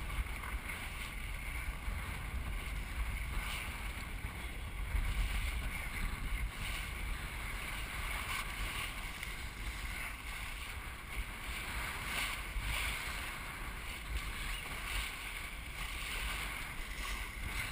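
Wind buffeting the microphone and water washing past the hull of a Melges 24 racing sailboat sailing upwind, with a low steady rumble and a soft splash every few seconds.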